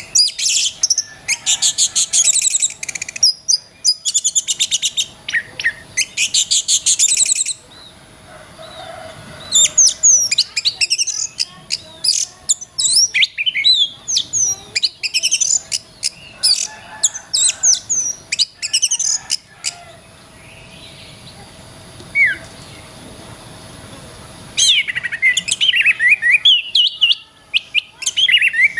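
Oriental magpie-robin (kacer) singing: bursts of fast trills and varied sharp whistled phrases, with a lull of a few seconds before the singing resumes near the end. A faint steady hum runs underneath.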